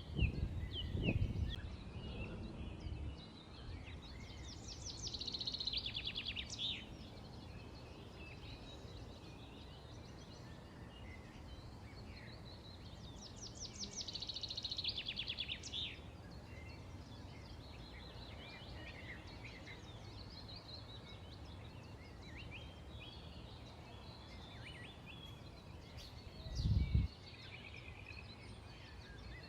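Songbirds chirping, with two rapid trilled songs of quickly repeated high notes, about five seconds in and again near the middle, over a steady low background hum. A brief low thump sounds near the end.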